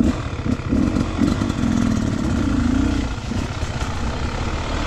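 Beta 300 RR two-stroke dirt bike engine revving up and down unevenly.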